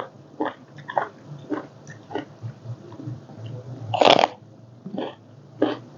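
A person chewing and crunching food close to the microphone, with short wet bites at about two a second and one louder crunch about four seconds in.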